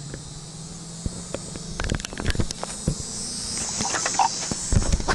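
A steady high-pitched buzzing of insects in the swamp, growing louder from about two seconds in, with scattered clicks and knocks over it.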